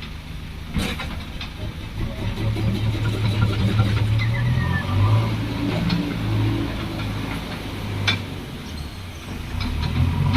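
JCB 3DX backhoe loader diesel engines running and revving up and down while digging and loading, with a couple of sharp metallic clanks.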